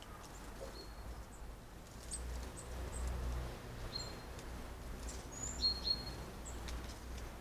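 Small garden birds calling: scattered short, high chirps and brief whistled notes, two louder ones close together near the end, over a low background rumble.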